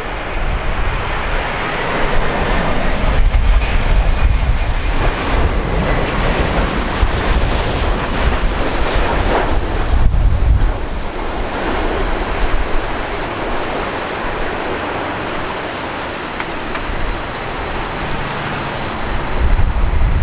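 Airbus A340 jet engines rumbling as the airliner comes in to land, mixed with strong gusty wind buffeting the microphone. The noise swells through the first half, eases off and builds again near the end.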